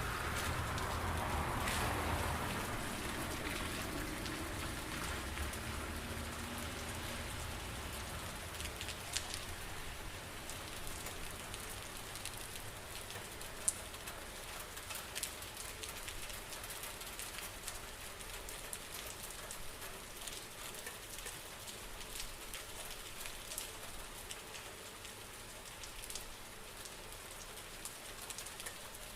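Steady rain falling on a surface, with individual drops ticking sharply here and there. A louder rushing swell in the first few seconds dies away.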